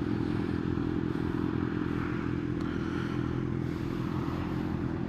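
Kawasaki ZX-6R 636's inline-four engine idling steadily, its pitch holding level.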